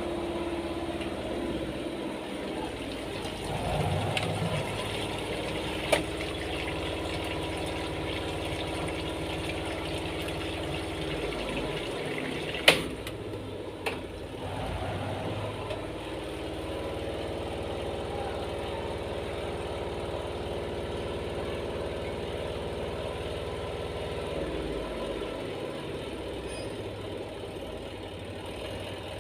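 A machine running with a steady hum. It is broken by a sharp click about six seconds in and a louder knock a little before halfway.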